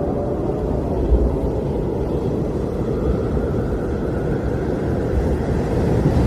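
Blizzard wind blowing in a steady low rush, with a deep rumble that swells briefly about a second in.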